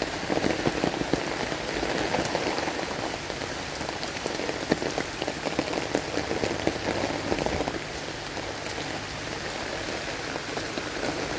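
Heavy rain falling steadily, a dense mass of drops striking a surface.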